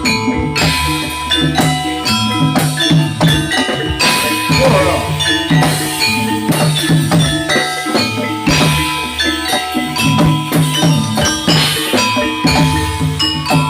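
Javanese gamelan music for jathilan dancing, played loud: metallophones ringing a repeating melody over steady drumming, with rattling, jingling percussion.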